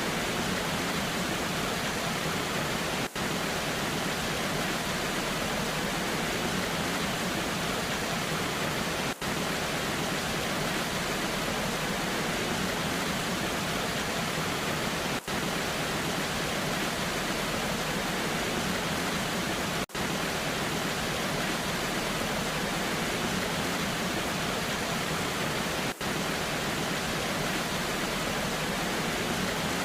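Steady rushing of a waterfall in the rain, an even hiss with no distinct events. The rush drops out for an instant about every six seconds.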